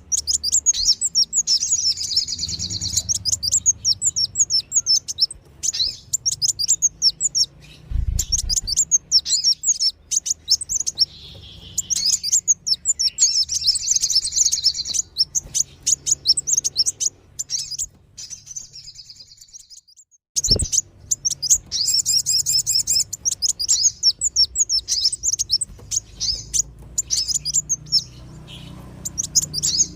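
Sunbirds (kolibri wulung and sogon) calling as a bird-lure recording: rapid, high, sharp chirps and trills in dense runs, broken by a couple of short pauses. A faint low hum lies underneath, with a brief low thump about eight seconds in.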